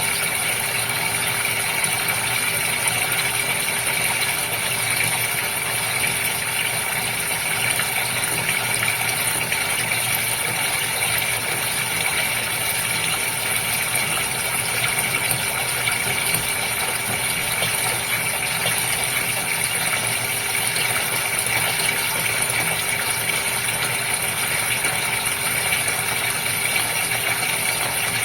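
Steady running water from a goldfish filter, with the even hum and rattle of its pump underneath.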